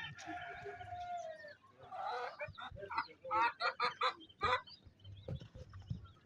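Chickens calling: a drawn-out call trailing off in the first second and a half, then a quick run of short clucks, about two or three a second, that stops near the end.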